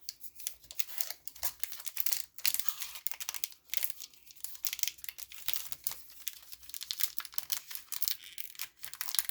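Plastic wrapper of a baseball card pack being torn open and crinkled by hand, in a run of irregular crackles and rips.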